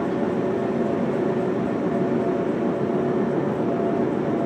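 Joshin Electric Railway electric train running, heard from inside the car: a steady rolling rumble with a steady hum from the motors.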